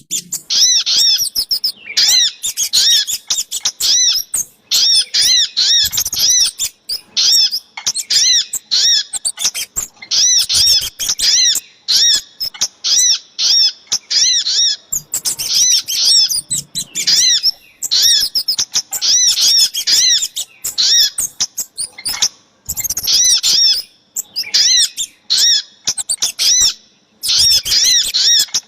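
Bird-lure recording of sogok ontong (sunbird) and kemade calls: rapid, high, arched chirps repeated in quick bouts of a second or two, with short pauses between bouts.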